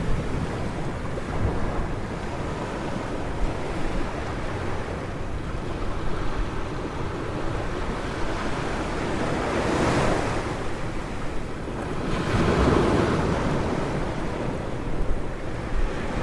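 Ocean waves washing onto a beach in a steady rushing wash, with wind buffeting the microphone. Two waves surge louder, one a little past the middle and another soon after.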